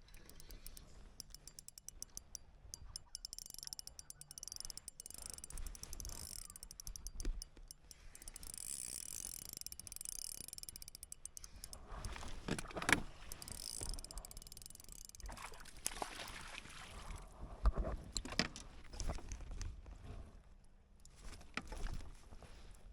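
Rapid mechanical ticking for about the first ten seconds, like a ratcheting reel or drive, then several sharp knocks and bumps of gear against a kayak on the water.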